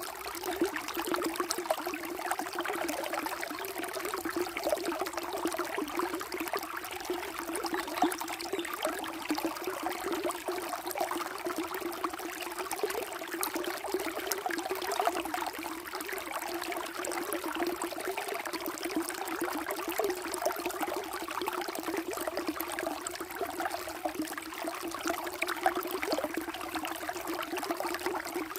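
Flowing water babbling and trickling steadily, a constant splashy rush with quick small peaks.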